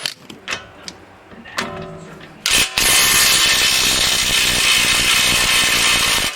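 A few metal clinks, then an impact wrench hammering for about four seconds on the front wheel hub's spindle nut, starting suddenly about two and a half seconds in and stopping abruptly.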